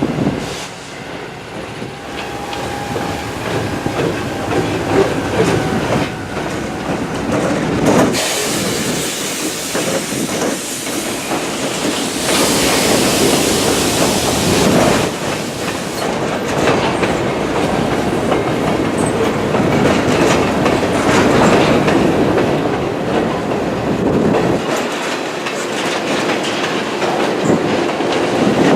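Seminole Gulf Railway freight train rolling past at close range: steady rumble and clatter of wheels on the rails, getting louder about eight seconds in.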